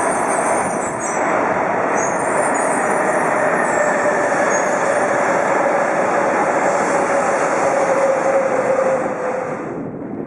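Shinkansen train running on the platform tracks: a loud, steady rush of wheels and air with a motor tone that slowly falls in pitch. It cuts off suddenly near the end.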